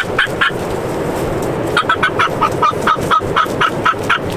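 Wild turkey calling: two quick runs of short, sharp notes at about five a second, a brief one at the start and a longer one in the second half, over steady wind noise.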